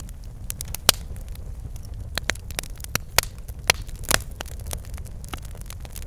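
Campfire burning: wood crackling with irregular sharp pops, over a steady low rumble of the flames.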